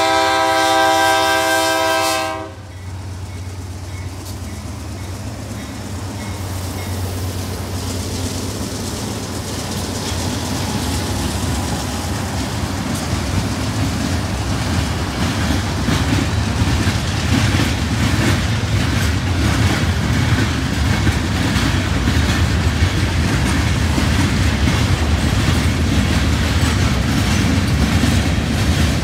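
A diesel freight locomotive's horn sounds a chord and cuts off about two and a half seconds in. Then comes the low rumble of BNSF diesel locomotives and the clatter of freight cars rolling past, growing steadily louder.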